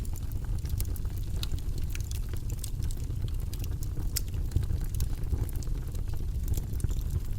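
Campfire crackling: irregular sharp pops and snaps scattered over a steady low rumble of burning.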